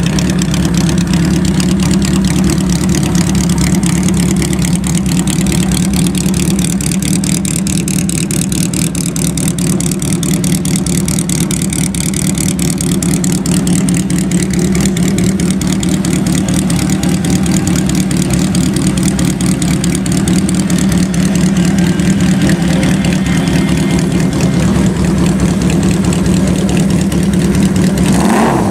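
Honda CB550's air-cooled inline four-cylinder engine running steadily through open drag pipes, giving a loud, even exhaust note.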